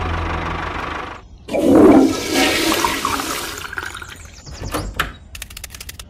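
A steady engine hum cuts off after about a second. Then a toilet flushes, a loud rush of water lasting about two seconds, followed by a few faint clicks and squeaks.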